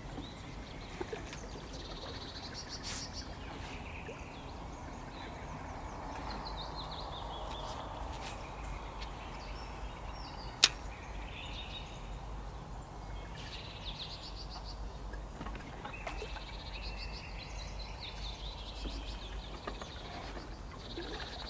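Wild birds singing from the surrounding woods, short trilled phrases every second or two, over a steady low rumble of wind on the microphone. One sharp click about halfway through.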